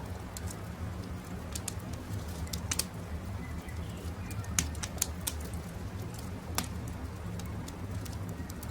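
Wood campfire crackling, with scattered sharp pops over a low steady rumble. Birds call faintly in the background.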